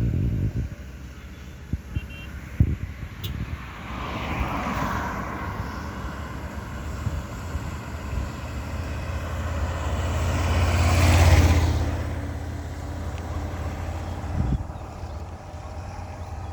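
Road traffic: vehicles passing by with a low steady rumble, one passing about four seconds in and a louder one peaking about eleven seconds in.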